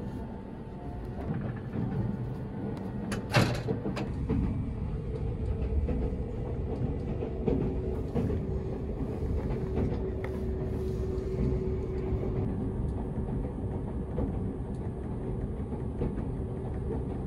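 Cabin noise of a Seibu Laview limited express, an electric train, running along: a steady low rumble, with one sharp click about three seconds in.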